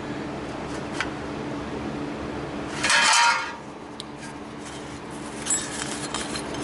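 Sheet-metal parts being handled, with clinks and clatter of steel on steel: a sharp click about a second in, a louder clatter lasting about half a second about three seconds in, and lighter clinks near the end, over a steady low hum.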